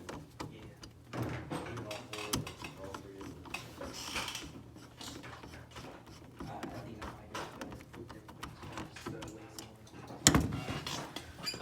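Indistinct low voices with scattered clicks and knocks of a wall switch being screwed into its box, and one sharp loud knock about ten seconds in.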